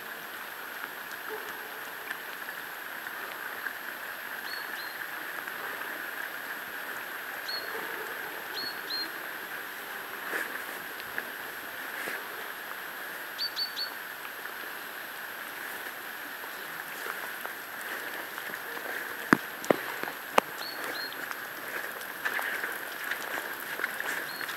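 Rural outdoor ambience: a steady hiss with small birds chirping in short runs of two or three high notes every few seconds. Three sharp clicks sound about three-quarters of the way through.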